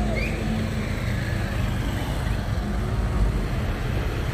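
A heavy truck engine running with a steady low hum, over general road noise.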